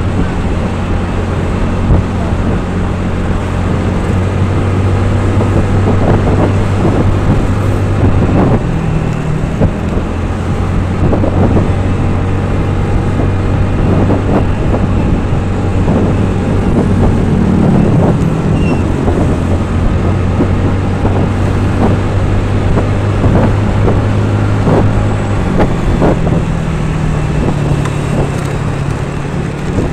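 A vehicle engine running steadily while under way, with road noise and wind on the microphone. Its pitch shifts about a third of the way in and again near the end.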